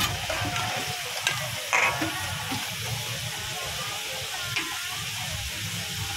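Sliced pork and garlic sizzling in hot oil in a large steel wok. A few sharp metal clinks against the wok sound in the first two seconds and once more a little after the middle.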